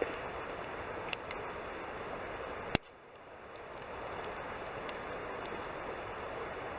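Wood campfire crackling over a steady hiss, with sharp single pops at the start, about a second in, and a loudest one near three seconds in.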